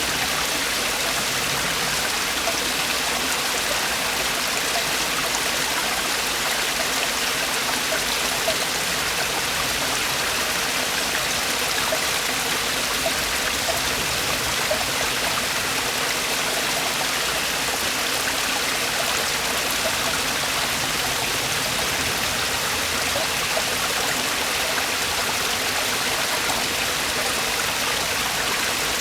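Mountain stream water falling and splashing over rocks in a steady, even rush.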